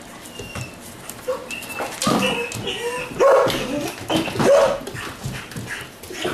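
Belgian Malinois puppies yipping, whimpering and barking as they play-bite, in a run of short pitched calls that gets louder about halfway through.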